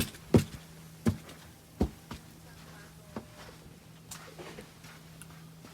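Footsteps crunching through deep snow: a few sharp steps in the first two seconds, then fainter ones.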